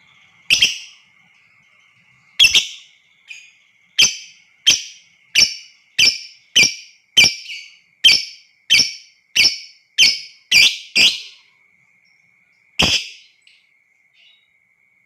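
Lovebird giving a run of short, loud, shrill calls, about one every half second to two-thirds of a second in the middle, with a pause and one last call near the end. A faint steady high whine runs underneath.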